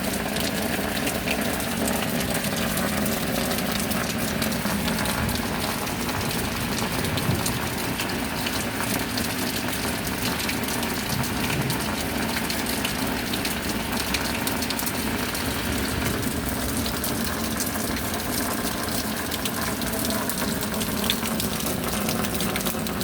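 Steady rain, a dense, unbroken patter of drops.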